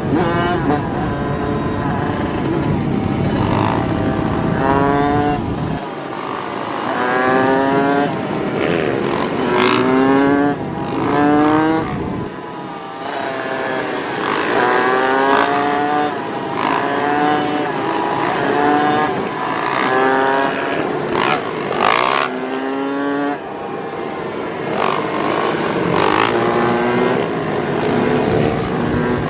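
Motorcycle engine accelerating hard again and again, its pitch climbing for about a second, then dropping at each gear change and climbing again.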